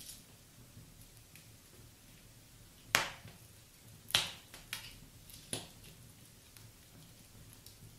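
Wood fire burning in a fireplace, crackling: scattered small ticks and four sharp pops in the middle, the first the loudest.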